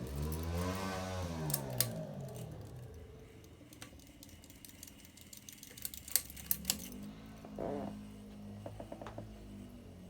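Emerson Pro Series II ceiling fan switched on to low speed by its pull chain, with a low motor hum. The pull chain clicks and ticks against the motor housing in scattered clusters, a rubbing that can pass for bearing noise.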